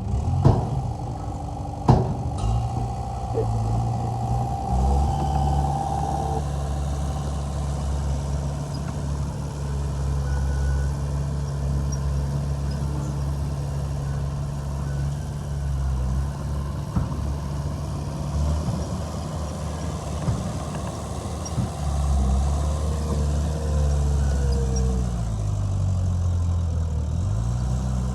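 Heavy diesel engine of earthmoving machinery running steadily with a low rumble. Two sharp knocks come in the first two seconds, and a high whine sounds over the first few seconds. Near the end the engine speed dips and then picks back up.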